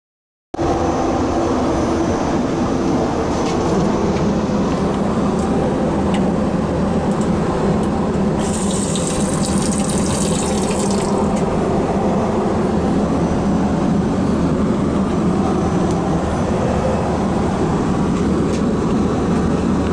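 Steady cabin noise of a Boeing 777-300ER airliner in flight: the constant rush of its engines and airflow with a low hum. A brief extra hiss joins about nine seconds in.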